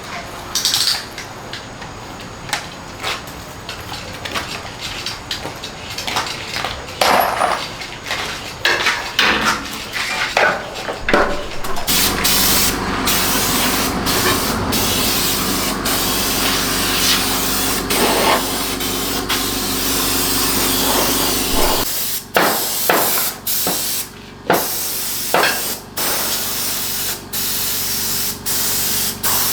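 Knocks and clatter of parts being handled, then, about twelve seconds in, a pressure washer starts spraying with a steady hiss over the low hum of its motor. In the last third the spray comes in bursts with short breaks as the trigger is released and pressed again.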